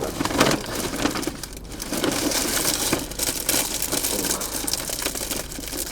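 Plastic packaging crinkling and rustling as it is handled and opened close to the microphone: an irregular crackle that runs on with no break.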